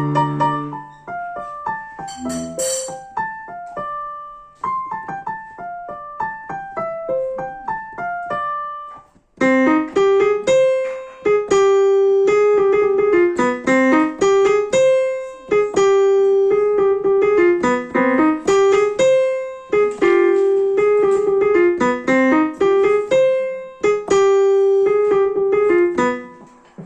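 Music played on a keyboard with a piano sound: a quick, quieter run of short notes, then from about nine seconds in a louder repeating riff that keeps coming back to one held low note.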